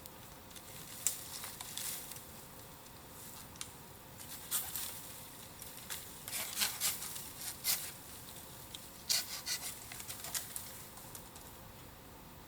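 Bamboo bonfire crackling: irregular clusters of sharp snaps and pops, densest in the middle and latter part.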